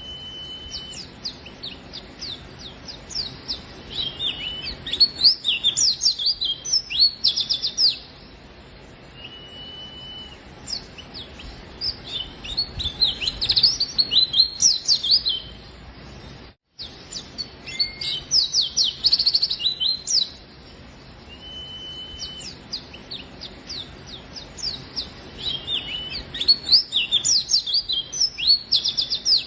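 White-eye (pleci) singing in repeated bouts of fast, high chirping trills a few seconds long, with short level whistled notes between bouts. The sound cuts out for an instant about two-thirds of the way through.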